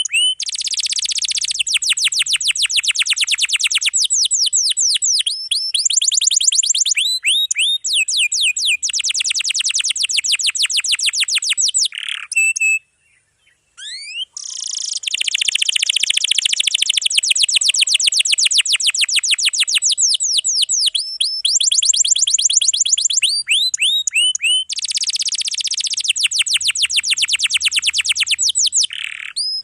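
Domestic canary singing long rolls: fast trills of rapidly repeated high notes, broken by short rising whistles. There is a brief pause about halfway through.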